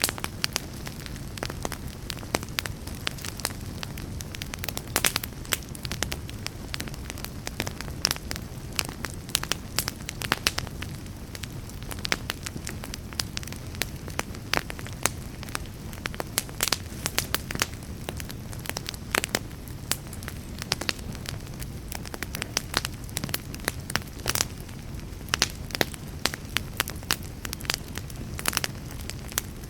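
Wood fire burning in a fireplace: a steady low rumble of the flames with many sharp crackles and pops from the burning wood, several a second at irregular intervals.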